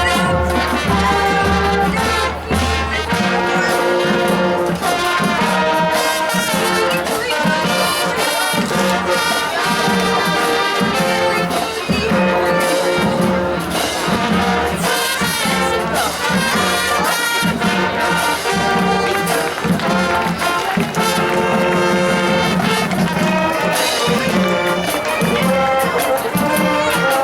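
High school marching band playing, its brass (trumpets and trombones) carrying sustained chords and melody. A low hum sits under the first three seconds.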